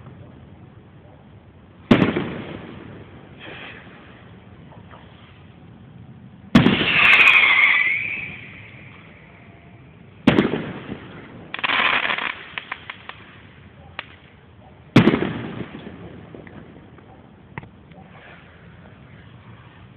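Fireworks display: four loud aerial shell bursts a few seconds apart, each trailing off in an echo. A hissing rush follows the second burst, and a quick run of crackling pops follows the third.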